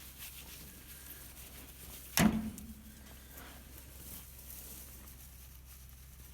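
A single sharp, hollow thump about two seconds in, ringing low for a moment, over faint background noise.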